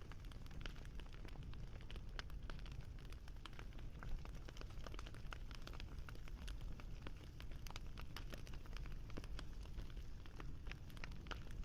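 Wood fire crackling: many small, irregular pops and snaps over a steady low rumble of the flames, with one slightly louder pop about four seconds in.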